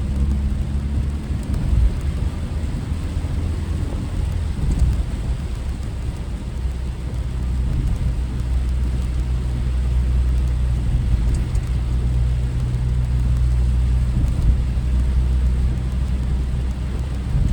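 A car driving on a rain-soaked road in typhoon weather: a steady low drone of engine and road noise under a hiss of rain and spray. The drone grows a little louder about halfway through.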